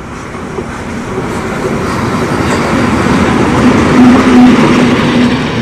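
A train passing close by, its noise building steadily to the loudest point about four seconds in and starting to fall away near the end, with a steady low tone running through the loudest part.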